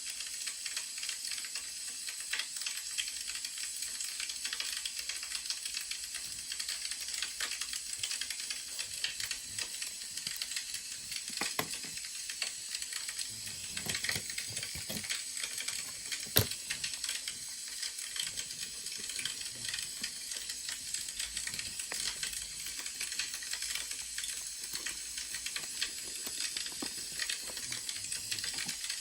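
Wood fire crackling: a steady hiss dotted with many small pops, with one sharper pop about sixteen seconds in.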